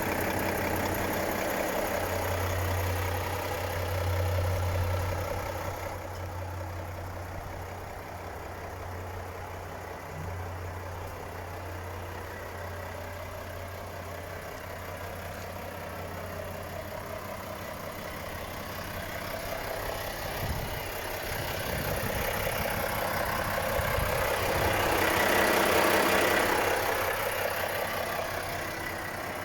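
Volvo FH 460 truck's 13-litre inline-six diesel idling steadily, its level rising and falling, with a louder, more hissing stretch near the end.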